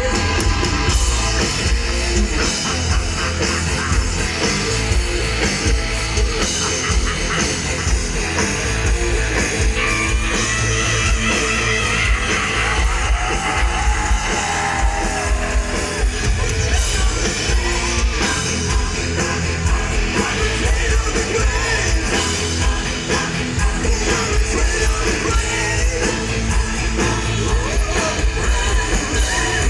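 Heavy metal band playing loud and live, with distorted electric guitars over bass and drums.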